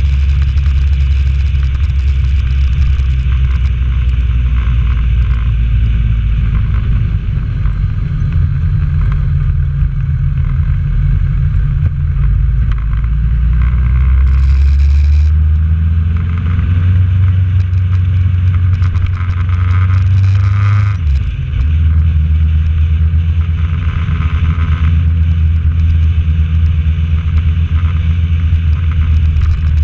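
Honda CB1000R's inline-four engine running as the motorcycle rides along. It is loud and steady, its pitch rising in the middle, with a brief dip about 21 seconds in before it settles back to a steady run.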